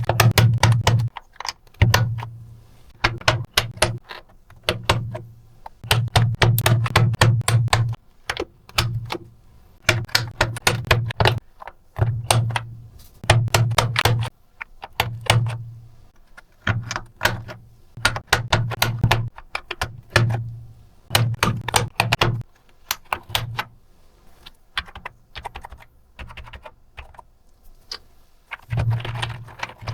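Typing on a computer keyboard: quick runs of key clicks with a low thud under the presses, broken by short pauses.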